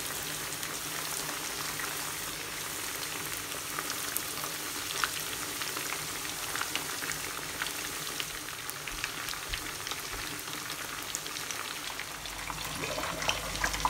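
Spice-marinated chicken pieces frying in a pan of hot oil: a steady sizzle with many small scattered pops and crackles.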